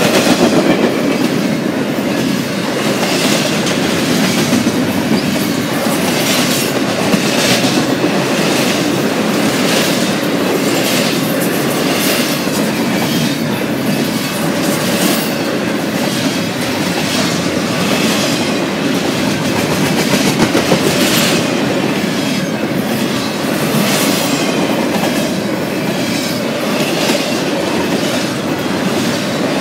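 Double-stack intermodal well cars of a freight train rolling past close by: a steady rumble of steel wheels on rail, with a sharp click every second or two as the wheel sets go by.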